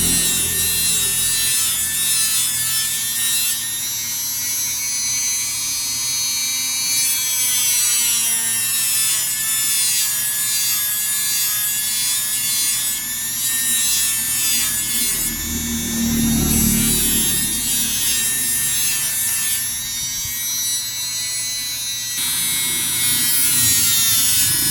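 Fine sandpaper being worked over a motorcycle's chrome fork inner tube to smooth out small pits: a steady, high-pitched abrasive sound that changes character every few seconds, with a brief low bump about two-thirds of the way through.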